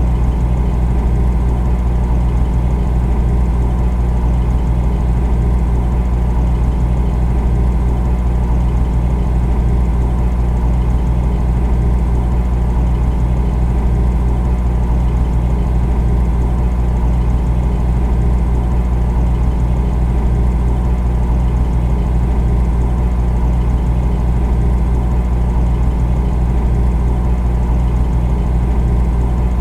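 Refrigerator running with a steady low hum and a rushing noise, unchanging throughout.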